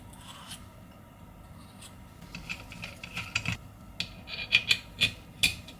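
Small scraping and clicking sounds of a pry tool working along the edge of an iPhone 11's screen to lift it off the frame. A quiet start gives way to a run of sharp clicks and scrapes from about two seconds in, most of them in the last two seconds.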